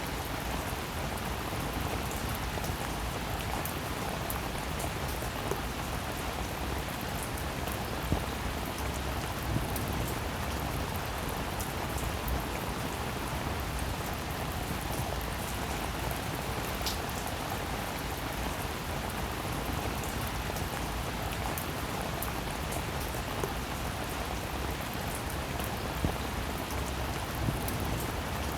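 Steady rain falling, an even hiss with a few sharper single drop hits now and then.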